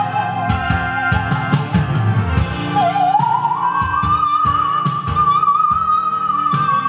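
A musical saw played as a singing melody line with a wide, wavering vibrato, gliding up to a higher held note about three seconds in, over an accompaniment with a steady beat.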